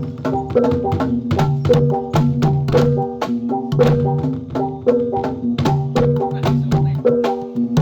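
Javanese gamelan-style jathilan accompaniment: drums and struck bronze instruments playing fast strokes over ringing pitched notes, in a short pattern that repeats about once a second.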